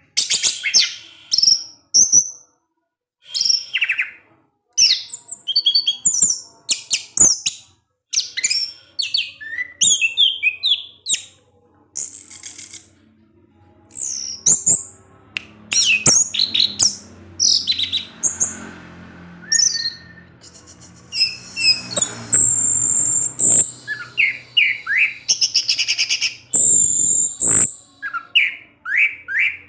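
Orange-headed thrush singing a varied, rapid song of short whistled and chirping phrases with quick sweeps up and down in pitch and brief pauses between phrases. It is the kind of song used to provoke other orange-headed thrushes into singing.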